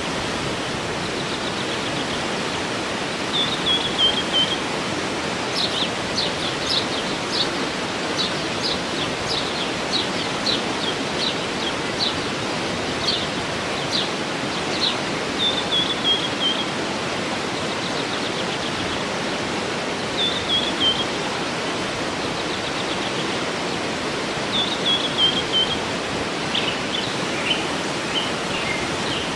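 Steady rush of a waterfall with a songbird singing over it. The bird gives short falling trills every few seconds and a run of sharp repeated chirps, about two a second, in the first half.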